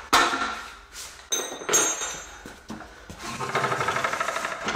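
Metal tools and parts being handled in a workshop: two sharp knocks, the second a metallic clink that rings briefly, then a rapid, even rattling from about three seconds in.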